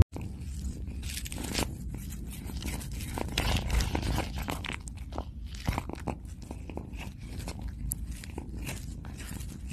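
Orange tabby cat chewing and crunching on a white object held in its paws: irregular crunchy clicks, several a second.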